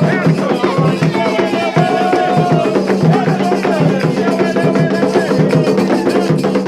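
Candomblé ritual music: atabaque hand drums playing a steady rhythm, with a sharp struck percussion line like a bell or wood block and voices singing a chant over them.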